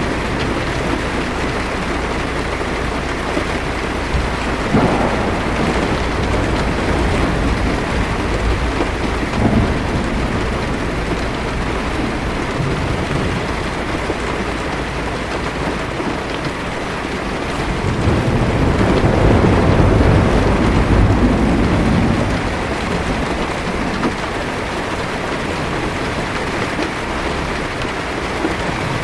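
Heavy rain falling steadily on a car's roof and windshield, heard from inside the car. About two-thirds of the way through, a rumble of thunder swells and fades.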